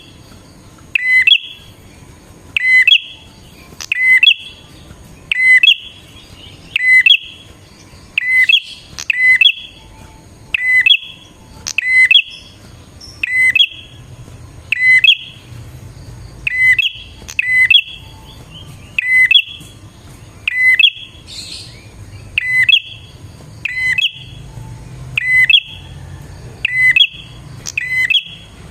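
A prinia (prenjak) repeating one short, sharp chirping call about every second and a half, about twenty times, in an even series.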